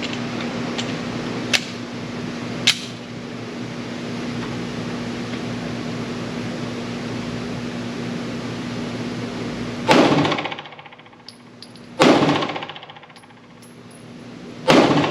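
Three 9mm pistol shots from a PSA Dagger compact in an indoor range, about two and then three seconds apart, each trailing off in reverberation. Before them, a steady hum with a couple of sharp clicks.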